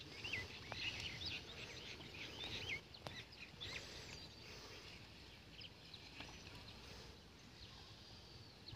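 Faint outdoor ambience with small birds chirping and calling in quick short notes, busiest in the first half and thinning out toward the end.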